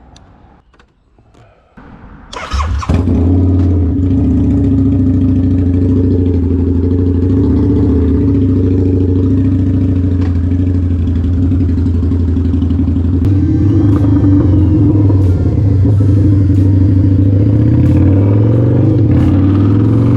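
Harley-Davidson V-Rod's liquid-cooled V-twin cold-started: a few faint clicks, then the starter and the engine catching about two and a half seconds in, settling into a loud, steady idle.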